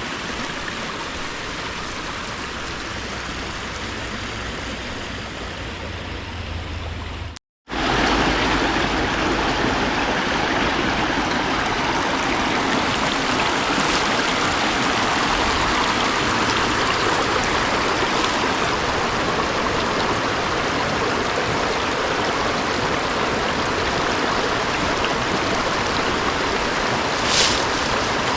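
Creek water running steadily over rocks. About seven seconds in it cuts off for a moment and comes back louder and brighter.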